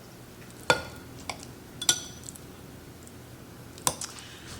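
Knife clinking against a serving dish while dicing jellied cranberry sauce: a few sharp, ringing clinks a second or two apart.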